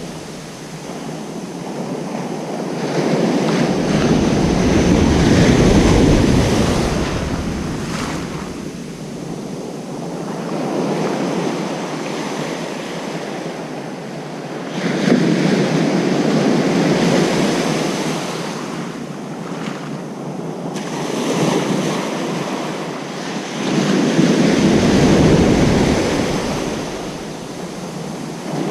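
Ocean surf breaking on a beach: about five waves in turn, each building to a loud wash and fading over a few seconds.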